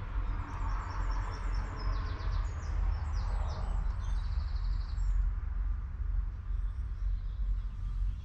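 A bird singing a long run of rapid high chirps through the first half, over a steady low rumble.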